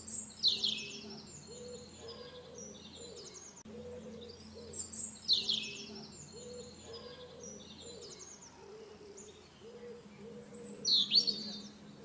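Birds singing: bright chirps and quick trills that come in short phrases every few seconds, loudest near the end, over a low steady hum.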